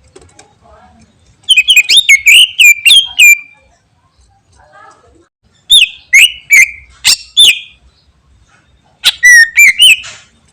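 Cucak ijo (green leafbird) singing in three loud bursts, each a second or two long, of quick, sweeping whistled notes mixed with sharp clicks.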